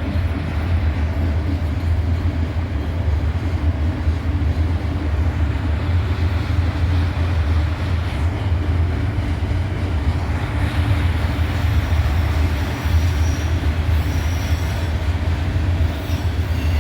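Cars of a BNSF intermodal freight train rolling past close by, a steady loud rumble of steel wheels on rail. A faint high wheel squeal comes in over the last few seconds.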